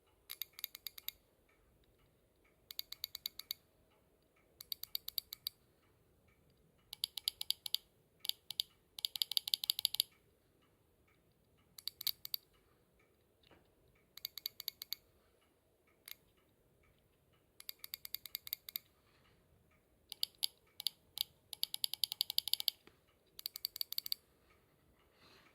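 Used electronic fuel injectors from a Subaru Pleo engine, removed and pulsed one after another on test: about a dozen short bursts of rapid, sharp clicking, each under a second, with gaps between. The test is meant to find the faulty injector blamed for the engine noise, and one of them clicks clearly differently from the rest.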